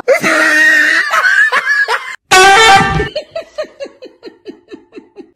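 A wavering high-pitched voice, then after a short break a loud burst and a run of laughter: short falling ha's, about four or five a second, fading out.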